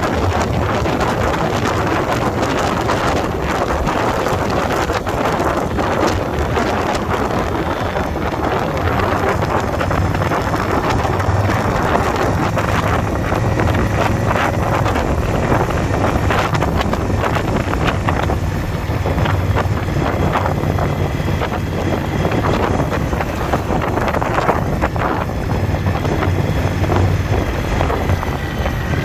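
Motorcycle engine running steadily while riding at speed, with heavy wind buffeting on the microphone.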